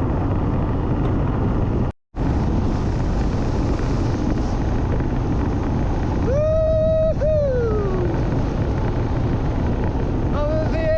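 Motorbike running at road speed with wind rushing over the microphone, cutting out for an instant about two seconds in. Twice, about six and ten seconds in, a long whooping call holds its pitch and then slides down.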